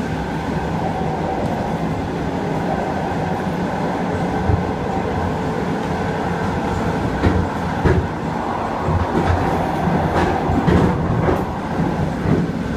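Russian suburban electric train (elektrichka) running, heard from inside the carriage's vestibule: a steady rumble and hum, with a few short knocks from the wheels in the second half.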